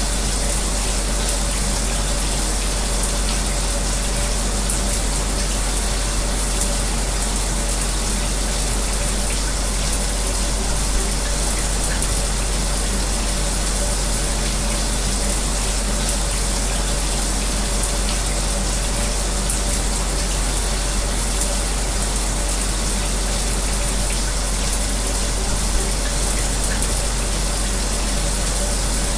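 Shower spray running steadily, mixed with an electric fan running, as one even rush of noise with a steady low hum beneath it.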